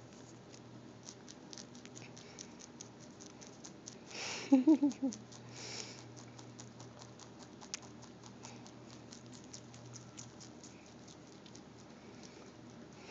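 Rabbit chewing cilantro: a steady run of fast, crisp crunching clicks as it bites through the stems and leaves. About four seconds in comes a short, louder burst of rustling with a few quick pitched pulses, like a brief voice.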